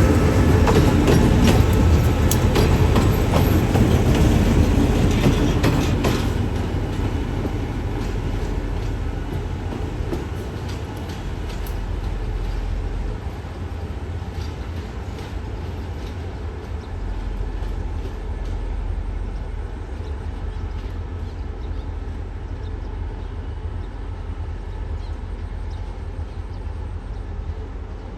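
Train running on the tracks, its wheels clacking over the rail joints. It is loudest for the first six seconds, then fades to a steadier, lower rumble as it moves away.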